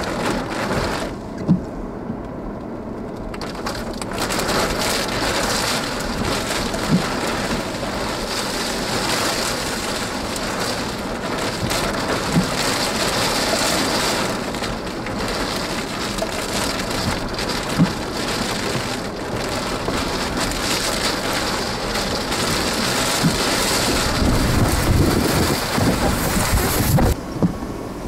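Steady heavy rain hitting a vehicle, with a few sharp louder hits every few seconds and a low rumble building near the end.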